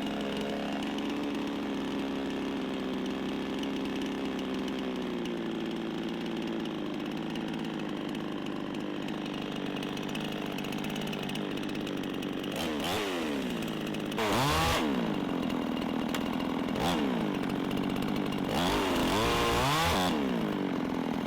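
Cheap Chinese Zenoah-clone two-stroke chainsaw idling steadily, then revved up and back down four times in the last nine seconds, the longest rev near the end. At high revs its vibration shakes the chain brake on.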